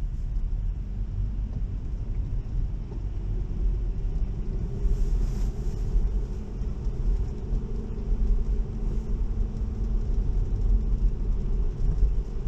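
Steady low road and tyre rumble inside a Tesla electric car's cabin, driving on wet pavement in the rain, with a faint hum and a brief hiss about five seconds in.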